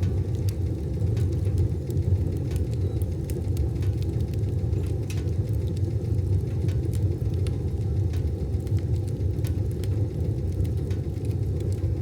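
Wood fire burning in a wood stove: a steady low rumble of the flames with scattered, irregular crackles and pops.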